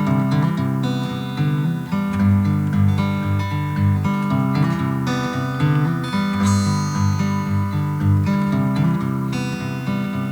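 Acoustic guitar playing a song's instrumental intro: strummed chords with a steady rhythm and no singing yet.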